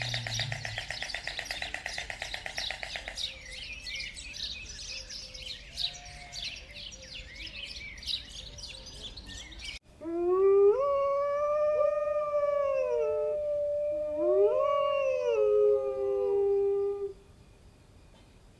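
Dense chatter of short high chirping calls for about ten seconds, then, after a sudden cut, one long canine howl of about seven seconds. The howl rises, holds, dips and rises once more before stopping.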